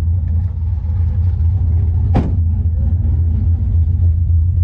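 Car engine running at a steady, even speed with a low rumble, not revving. A single brief sharp knock or click comes about two seconds in.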